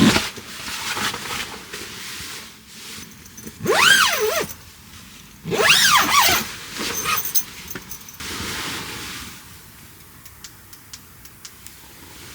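Korean water deer calling: two loud, hoarse screams about two seconds apart, each rising and then falling in pitch.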